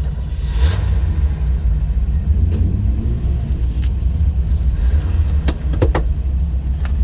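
Classic car's engine running with a steady low rumble, just after being started. A few sharp clicks come about five and a half to six seconds in.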